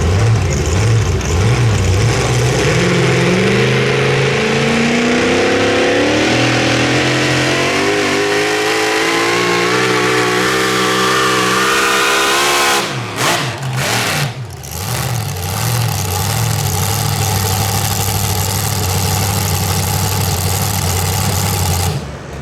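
Super modified four-wheel-drive pulling truck's engine under load, climbing steadily in pitch for about ten seconds as it pulls, then breaking off suddenly and settling into a steady lower engine note.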